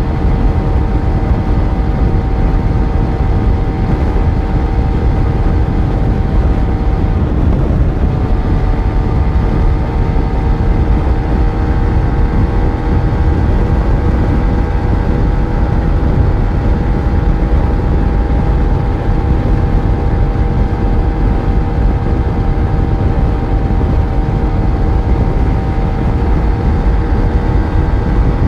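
Yamaha FZ1 inline-four engine running at a steady cruise under heavy low wind and road rush. The engine pitch shifts slightly about eight seconds in.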